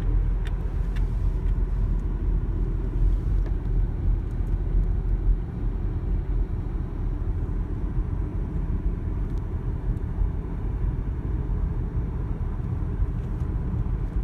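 Car cabin noise at highway speed: a steady low rumble of tyres and engine.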